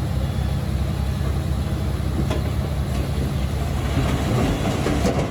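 Diesel engine of heavy earthmoving machinery running steadily under work, with a few short clanks about two seconds in and again near the end.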